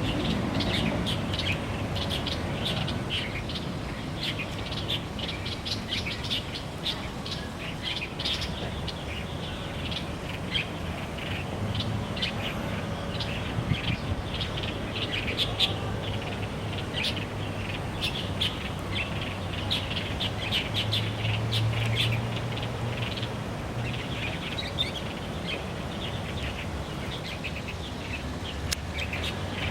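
Light-vented bulbuls (Chinese bulbuls) calling and singing, a busy run of short chirps throughout, over a steady low background rumble.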